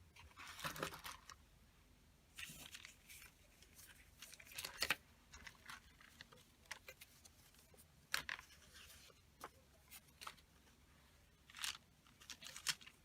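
Paper being handled: short bursts of rustling and crinkling as craft papers and picture cut-outs are shuffled and moved about.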